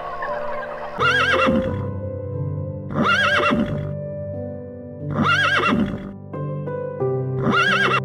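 A horse whinnying four times, about two seconds apart, each a short wavering neigh, over background music.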